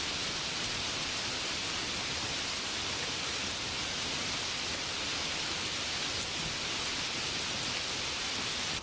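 Steady rainfall, an even hiss of rain with no single drops or other events standing out.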